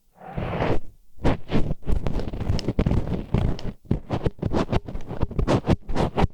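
Disposable wooden chopsticks scraping and grinding against the ear wall in ASMR ear cleaning. The strokes are short and irregular, with a brief pause about a second in, and come faster over the last couple of seconds.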